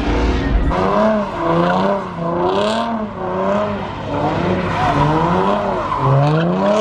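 Car engine revving over and over, its pitch rising and falling about once a second, with one sharper rising rev near the end.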